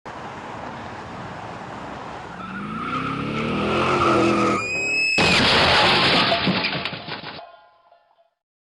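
A car engine revving higher with tyres squealing, then a loud crash impact about five seconds in, followed by clattering debris that dies away.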